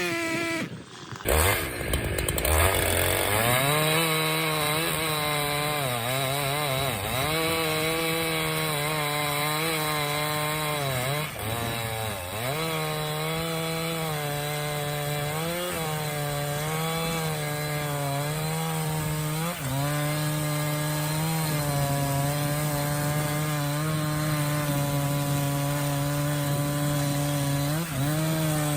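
Two-stroke chainsaw revving up about two seconds in, then running at high revs. Its pitch sags briefly every few seconds as the chain bites into the wood.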